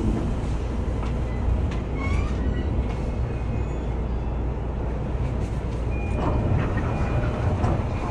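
Inside a commuter train carriage as the train slows and halts: a steady low rumble, with a few faint short high squeaks and clicks, and busier sound toward the end.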